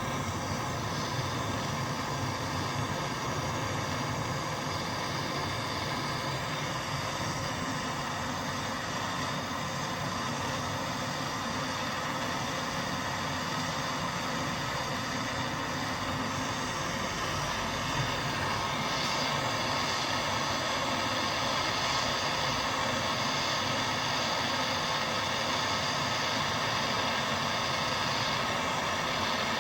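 Gas blowtorch flame burning with a steady hiss, heating a stuck part of a seized Tecumseh lawnmower engine to loosen it.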